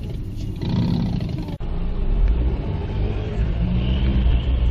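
Car engine and road rumble, heavy and low. About a second and a half in, the sound cuts abruptly to a different recording.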